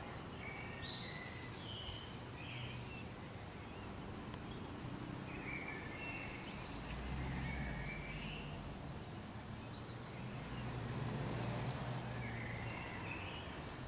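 Small birds chirping in three short bursts, near the start, in the middle and near the end, over a steady low background rumble.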